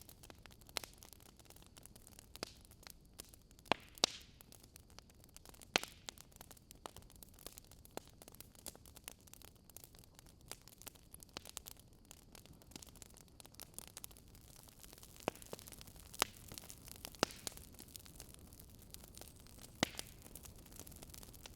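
Campfire of dry wood burning: faint, irregular crackling over a low hiss, with a few sharper, louder snaps scattered through.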